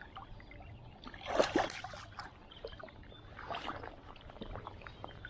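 Water splashing twice in a creek: a louder splash about a second in and a shorter one around three and a half seconds, over a low steady background.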